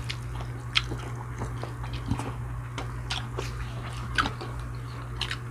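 Close-up chewing and biting of food, with a few short crisp crunches, over a steady low hum.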